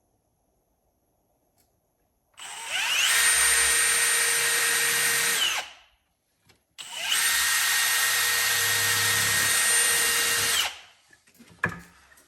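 Power drill run twice, about three and a half and four seconds each, spinning up, holding a steady whine and winding down, boring into hard old oak.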